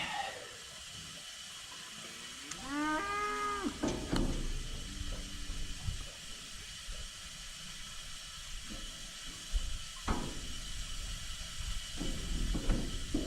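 A cow moos once, a call of about a second, rising then holding steady, about three seconds in. A few short knocks follow, about four and ten seconds in.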